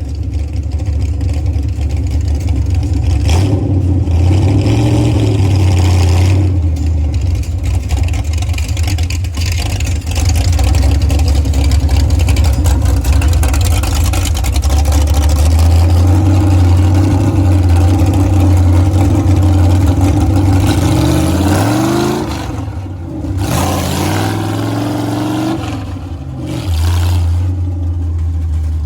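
Monster truck engine running steadily under load, then revving up twice near the end, its pitch rising each time before dropping back.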